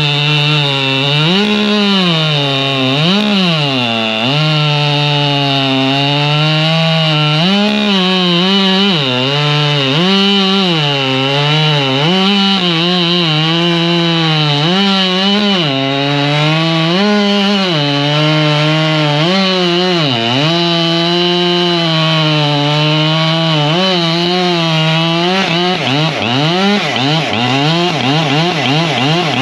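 Two-stroke chainsaw cutting firewood at full throttle, its engine pitch dropping as the chain loads in the wood and rising again between and after cuts. Near the end the dips come quicker, in short repeated cuts or revs.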